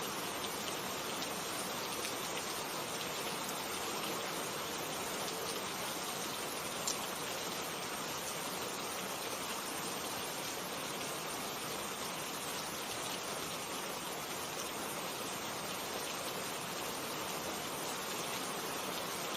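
Steady rain falling, an even hiss with a few scattered drop ticks and one slightly sharper drop about seven seconds in.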